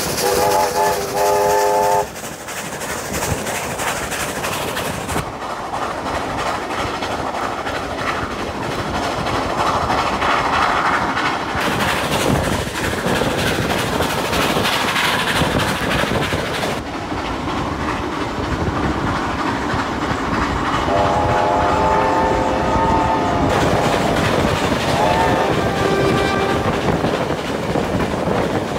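Two trains running side by side on parallel tracks, with a steady rumble and clatter of wheels and carriages. A train whistle sounds a chord of several notes for about a second and a half at the start, again for about two and a half seconds about two-thirds of the way through, and briefly once more soon after.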